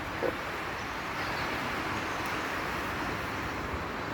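Steady rushing of a river running high and fast after a flood.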